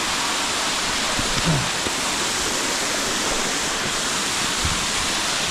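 Waterfall pouring into a pool close by: a loud, steady rush of falling water.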